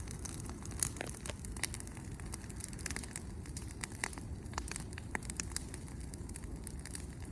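Wood bonfire crackling, with irregular sharp pops and snaps over a low steady rush; the sharpest pop comes a little under a second in.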